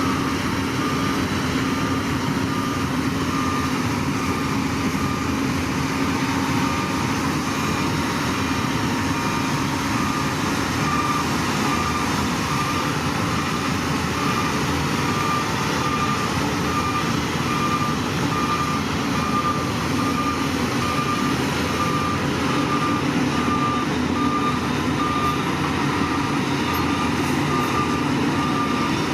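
Heavy machine's diesel engine running steadily while its reversing alarm beeps at an even rate throughout.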